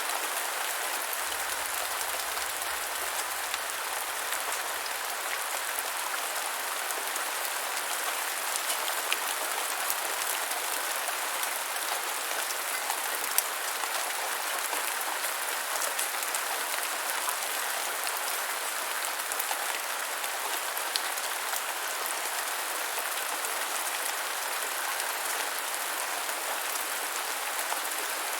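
Steady rain falling, a dense hiss of many drops with scattered sharper drop ticks.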